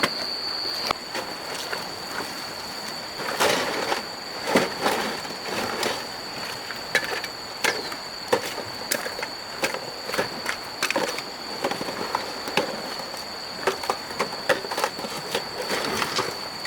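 Irregular knocks, clatter and scraping of debris being handled and moved, over a steady high-pitched insect drone.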